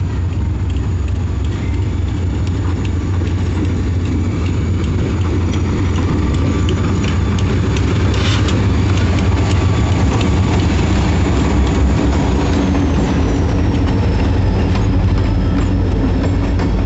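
Freight train's diesel locomotives passing at close range: a steady, deep engine rumble that grows slightly louder, with a few clanks from the train.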